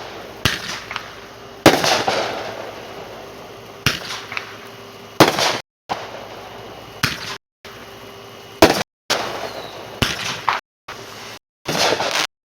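Consumer aerial fireworks going off: a string of sharp bangs every second or two, each trailing off in a crackle, the loudest about two seconds in. The recording cuts out to dead silence for brief moments between several of the shots.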